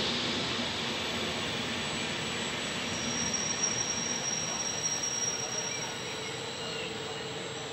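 Electric regional train of double-deck Vivalto coaches rolling slowly through the station: a steady rushing hiss that slowly fades, with a thin high whine for a few seconds in the middle.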